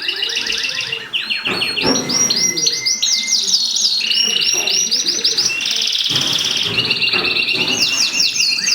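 Domestic canary of the mosaic variety singing: a long, loud song of fast trills, each phrase a rapid run of the same repeated note before switching to a new one.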